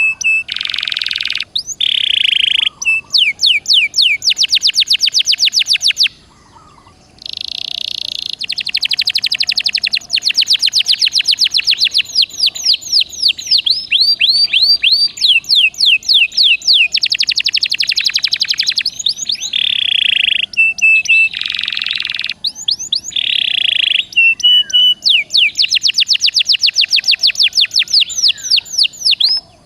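Domestic canary singing a long, loud song: fast trills of repeated sweeping notes alternating with short buzzy notes, with a brief pause about six seconds in.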